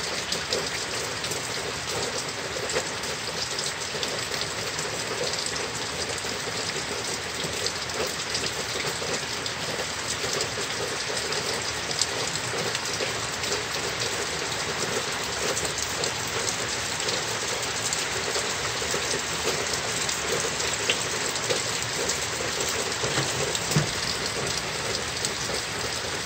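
Heavy rain falling hard and steadily: an even hiss full of small, sharp drop hits, a few of them louder.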